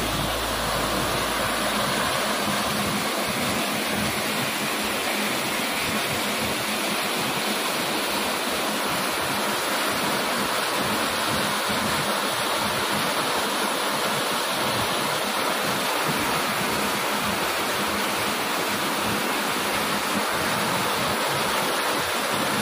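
Steady rush of a tall, multi-tiered waterfall: an even, unbroken hiss of falling water.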